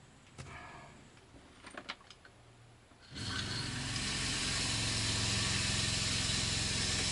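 A few light clicks, then about three seconds in a water pump starts and runs steadily, a hum under a strong hiss of water flowing, as the shower is tested.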